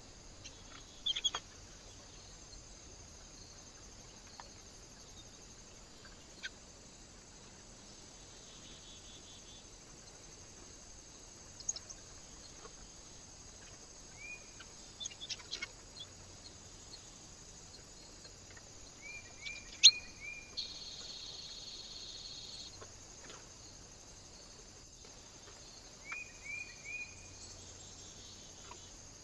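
Small birds at a feeder giving short, high chirps, a few at a time in small clusters, with scattered sharp clicks and taps, the loudest about twenty seconds in, over a steady hiss.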